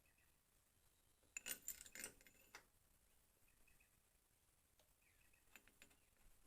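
Faint metallic clinks and taps of tools or parts being handled: a cluster of them about a second and a half in, and a few more near the end.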